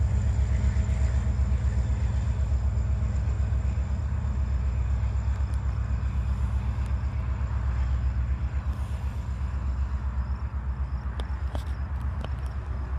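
Slow-moving empty coal train rolling past with a steady low rumble, with a few sharp clicks near the end.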